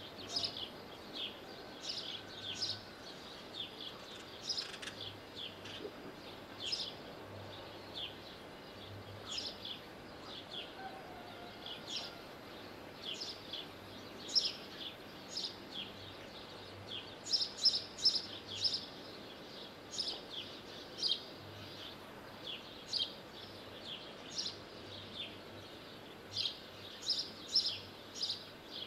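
Small birds chirping: short, high, quick-falling chirps repeated irregularly, now singly, now in quick runs, over a faint steady outdoor background.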